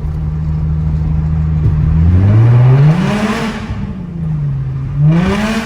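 Infiniti G35's 3.5-litre V6 with muffler and resonators deleted, idling steadily, then revved up and back down twice: one longer rise about two seconds in and a shorter blip near the end.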